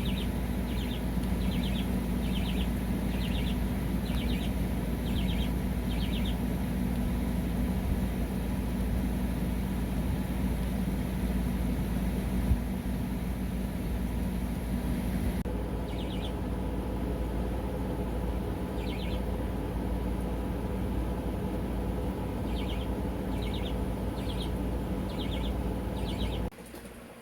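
Parrots giving short, harsh calls in runs of several, repeated in bursts, over a steady mechanical hum. The sound changes abruptly about halfway through and drops away sharply near the end.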